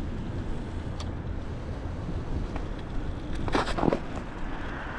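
Steady low rumble of street traffic and wind on the microphone, with a brief, louder sound with some pitch in it a little after three and a half seconds in.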